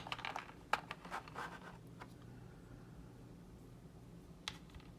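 Small model-kit parts being handled on a tabletop: a few light clicks and a short scrape in the first two seconds, a quiet stretch, then two more clicks near the end.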